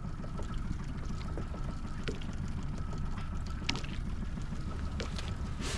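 Water lapping and sloshing against the hull of a drifting skiff, with a faint steady high tone and a few light clicks.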